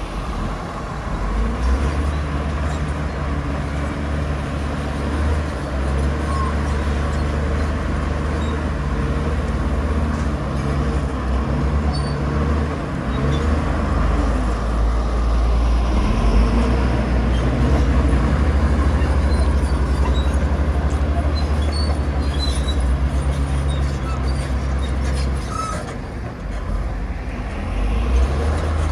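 Bulldozer diesel engine running steadily with a deep, pulsing low hum, easing off briefly near the end before picking up again.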